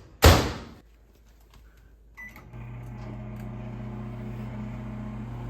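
A sharp thump, then about two seconds later a short beep and a microwave oven starting up and running with a steady low hum.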